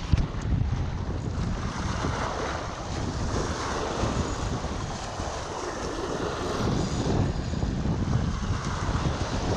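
Wind buffeting the microphone in a gusty low rumble, over the hiss of choppy river water.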